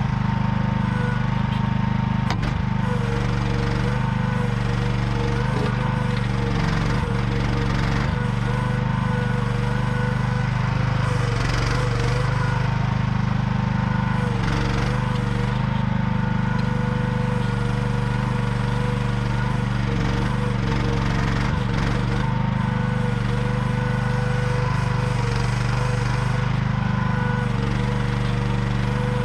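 AGT QH12R one-ton mini excavator's engine running steadily while it digs, with a few faint knocks scattered through.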